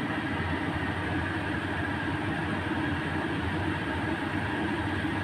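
Ground chili spice paste with green chilies and lime leaves sizzling in a stainless steel wok: a steady frying hiss as the paste is sautéed until fragrant and dry.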